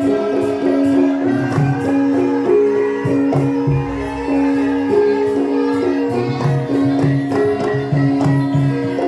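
Javanese gamelan music accompanying a lengger dance: held, ringing metallophone notes over a steady, repeating drum pattern, with jingling percussion on top.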